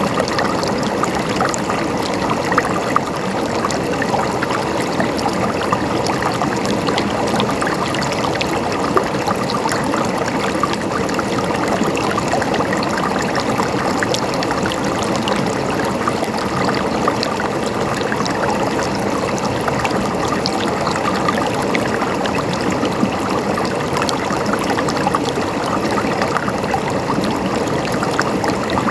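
Stream water flowing and gurgling steadily over rocks, with a constant splashing, trickling texture.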